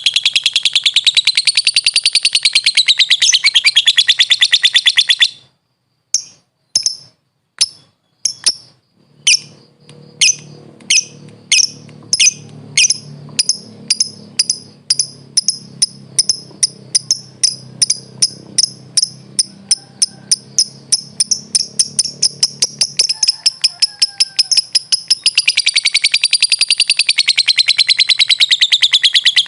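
Lovebird (Agapornis) calling: a long, very fast high chattering trill that wavers up and down in pitch, breaking off about five seconds in. It is followed by a series of sharp single chips, sparse at first and steadily speeding up, before the fast trill starts again near the end.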